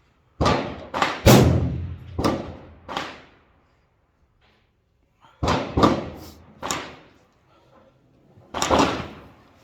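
A PSA M4-clone 5.56 semi-automatic rifle firing a string of single shots, each sharp crack followed by a short echoing tail. About five shots come in the first three seconds, then after a pause of about two seconds a few more follow, with two more near the end.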